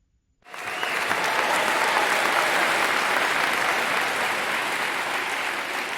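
Applause, a crowd clapping, starting suddenly about half a second in and going on steadily, fading slightly near the end.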